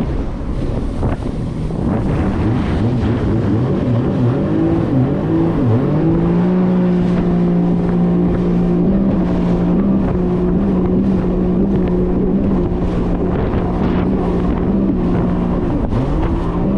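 1800cc jet ski engine running hard at speed, with wind and water spray rushing over the microphone. Its note wavers and drops briefly about five seconds in, then holds steady and high until a short dip near the end.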